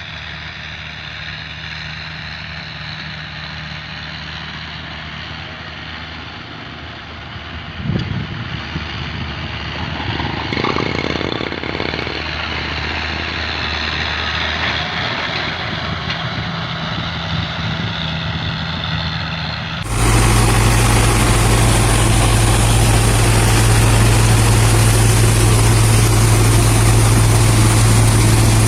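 Tractor engine running steadily. About two-thirds of the way through, the sound jumps abruptly to a much louder, closer engine sound, which holds steady to the end.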